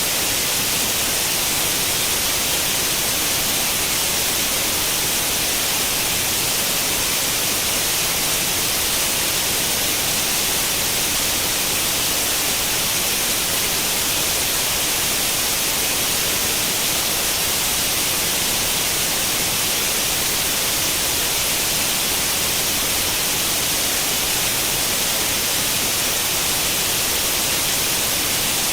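Steady white noise in the manner of an old tube television's static with no channel tuned: an even, unchanging hiss, strongest in the high treble.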